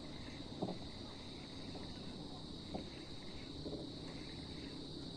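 A steady high insect-like drone over a faint low rumble, with two soft knocks about a second in and near the middle.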